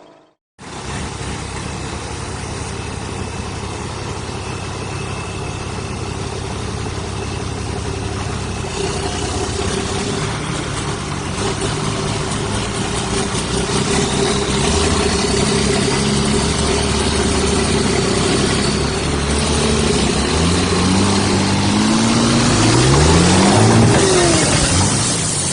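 A heavy vehicle's engine runs under load and grows gradually louder. Near the end the revs climb several times in quick rising sweeps.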